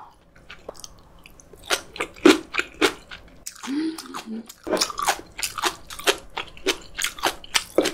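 Crunching, close-miked bites and chewing of fresh, spicy napa cabbage kimchi (geotjeori), in many short irregular crunches. A brief hummed "mm" of approval about halfway through.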